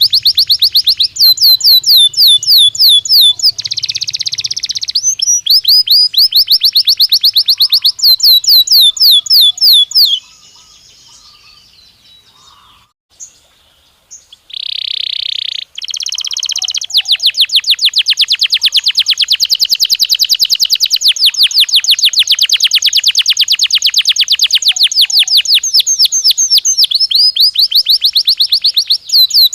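Domestic canary (Belgian canary) singing: fast trills of rapidly repeated high notes. About a third of the way in it pauses for a few seconds, broken by a short buzzy note, then goes into one long, even rolling trill.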